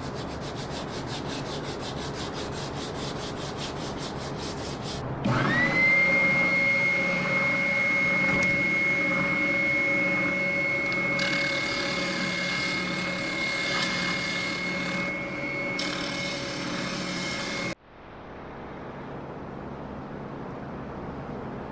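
Repetitive rubbing of sandpaper on plywood, then a benchtop spindle sander switched on about five seconds in, its motor whine rising quickly to a steady pitch. It runs for about twelve seconds, with a rougher grinding layer in the middle while the plywood floorboard's curve is pressed against the drum, and cuts off abruptly.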